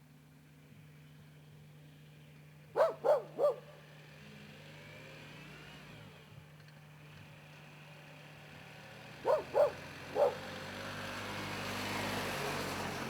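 A dog barking: three quick barks, then after a few seconds three more. Under them runs a steady low hum, and a rush of noise rises near the end.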